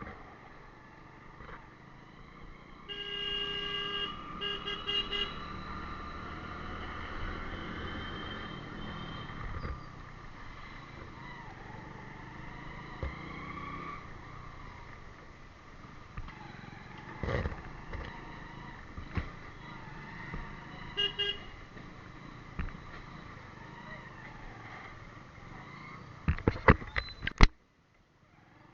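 Road traffic with a vehicle horn: three short honks about three seconds in and a shorter double honk later, over engine sound that rises in pitch. Near the end comes a quick run of loud sharp cracks, then the sound cuts off suddenly.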